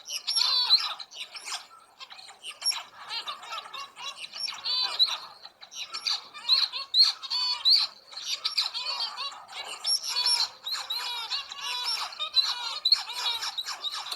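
Birds calling: a dense run of quick, overlapping calls that goes on without a break.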